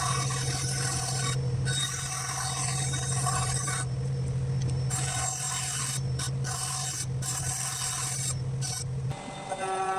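A small power tool sanding walnut: a steady motor hum under a rasping scrape that breaks off several times as the tool lifts from the wood. The motor stops about nine seconds in, and steady pitched tones follow.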